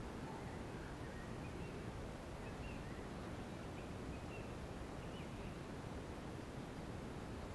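Quiet outdoor ambience: a steady low background noise with a few faint, short bird chirps scattered through it.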